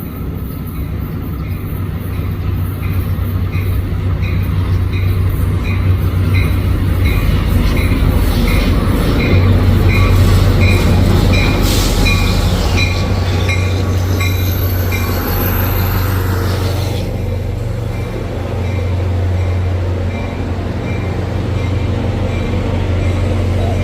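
A train running through the station with a low steady rumble, loudest near the middle, while a bell rings evenly about three times a second.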